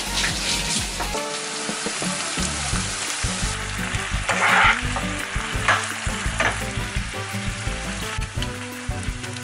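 Ground meat sizzling as it fries in a nonstick wok, stirred with a spatula that scrapes across the pan a few times.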